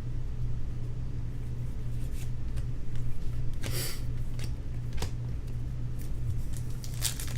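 Trading cards and pack wrappers being handled: faint scattered clicks and one brief rustle about four seconds in, over a steady low electrical hum.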